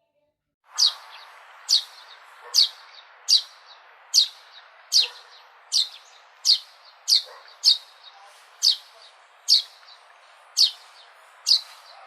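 Sparrow chirping: a single sharp, high chirp that falls quickly in pitch, repeated about once a second, over a steady background hiss. The sound begins abruptly under a second in.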